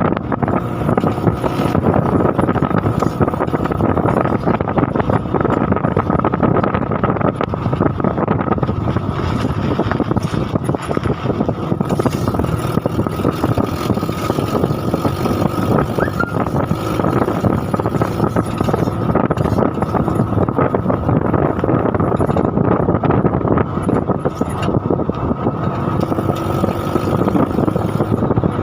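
A vehicle in motion: a steady, loud rumbling noise with a faint steady tone above it.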